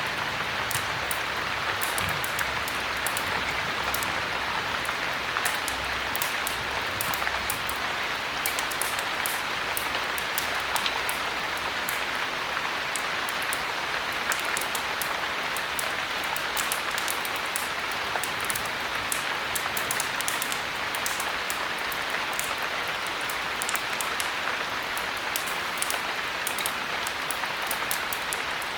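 Steady heavy rain, an even hiss of falling water, with many short sharp high ticks scattered through it.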